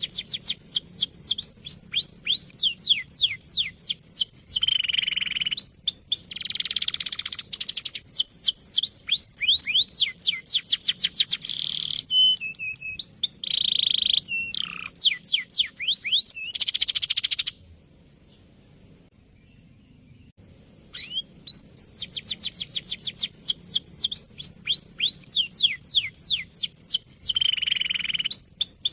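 Domestic canary singing a rolling song: rapid runs of fast falling whistled notes and buzzy trills. It breaks off for about three seconds midway, then starts again.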